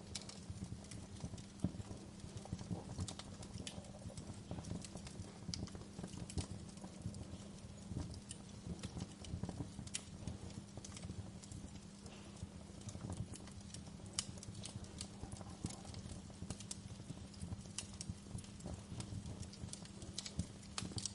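Fireplace fire crackling, with sharp pops at irregular moments over a steady low rumble.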